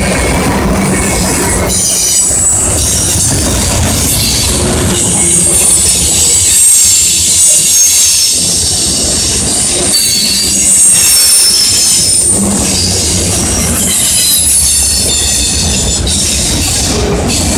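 Mixed freight train rolling past close by: a steady rumble of steel wheels on the rails, with a high-pitched squeal from the wheels and a clack over the rail joints now and then.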